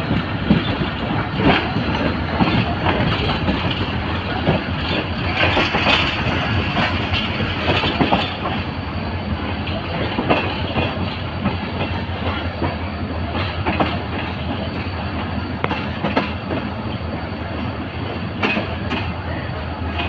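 Passenger train coach rolling along the track, heard close from its open door: a steady rumble with irregular clicks and clacks of the wheels over rail joints.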